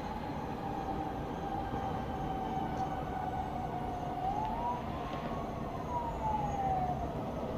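Emergency-vehicle siren wailing over a steady low rumble of town traffic. A single tone sags slowly, rises about four seconds in, then falls away again.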